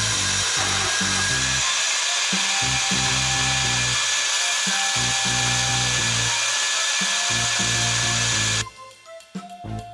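Power tool running steadily with a high hissing whine, cutting off suddenly near the end, over background music.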